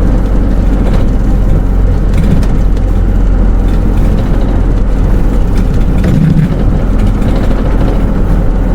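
Hino Rainbow II SDG-KR290J1 bus with automatic transmission, heard from inside the cabin while under way: a steady diesel engine drone and road noise.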